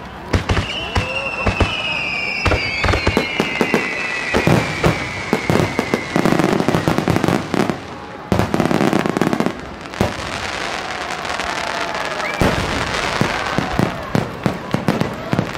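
Fireworks finale barrage: rapid, overlapping bangs of aerial shells bursting, with several whistles falling slowly in pitch over the first six seconds. The bangs thicken into a continuous rumble about six seconds in and again around nine seconds.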